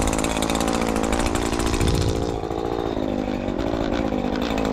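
Chainsaw engine running steadily, its pitch dipping a little past halfway through and then rising again.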